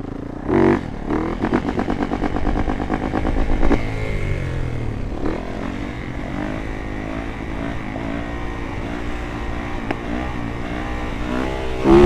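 Dirt bike engine revving: a sharp throttle blip about half a second in, hard running for the next few seconds, then steadier, lower revs that rise and fall slightly.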